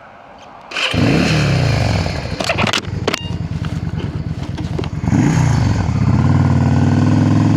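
Motorcycle engine firing up about a second in, its revs dropping as it catches, with a few clicks, a brief blip of the throttle, then settling into a steady idle.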